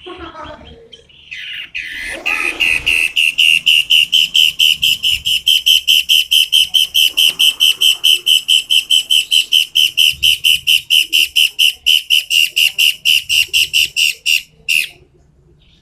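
A toed matahari bird calling a long, loud, rapid series of sharp notes at one steady pitch, about four a second, after a few softer calls. The series stops abruptly.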